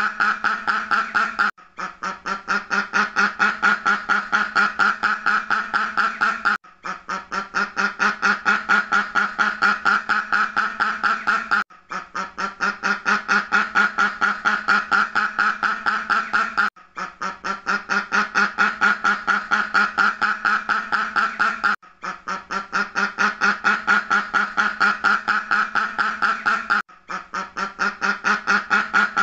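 Duck quacking in a rapid, unbroken run of about five quacks a second. It stops for a brief break about every five seconds, in a repeating loop.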